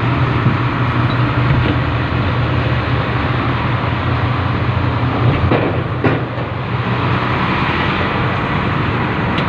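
Industrial freight train running along the track: a steady rumble of wheels and running gear on the rails, with a short knock about six seconds in.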